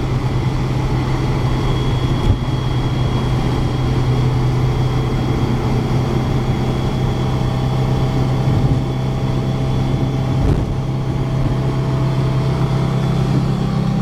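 1966 Porsche 912's air-cooled flat-four engine running steadily at freeway cruising speed, heard from inside the cabin over tyre and road noise.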